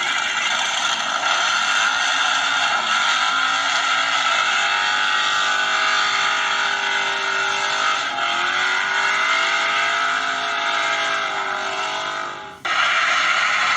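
Recorded car engine running and revving, its pitch sliding down and back up. Near the end it drops out abruptly for a moment and comes straight back, like a cut in the recording.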